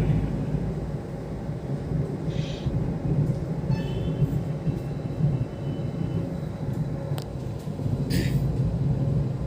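Steady low road and engine rumble inside a moving Hyundai Xcent, with a short high-pitched tone about four seconds in.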